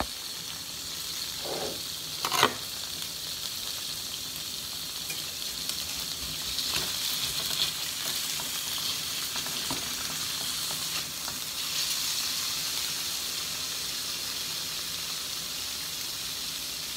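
Cubes of extra-firm tofu frying in safflower oil in a metal pan, a steady sizzle that grows a little louder and brighter from about six seconds in. A couple of sharp knocks come about two seconds in.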